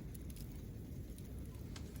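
Wood campfire burning: a few sharp crackles and pops from the burning wood over a low, steady rumble.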